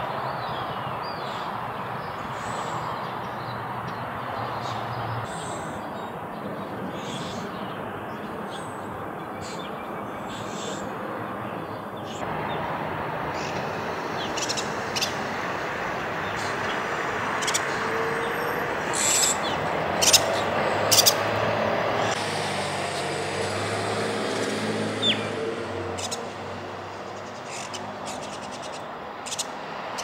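Small birds chirping in short, scattered calls over a steady hum of distant traffic; the chirps come thicker and louder in the middle stretch.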